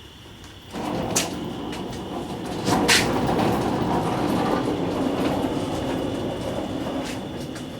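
VW Type 2 bus transaxle running under power, starting about a second in with a steady, loud grinding rumble and a couple of sharp clicks. The owner takes it for a very noisy ring and pinion, or the bearings connected to it, in a transaxle that has been overheated and has blown its fluid out.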